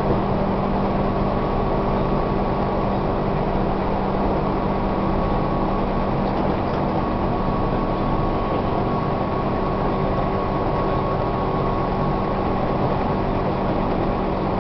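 Tobu 1800 series electric train running at a steady speed, heard from inside the passenger car: a dense, even running rumble with a steady hum.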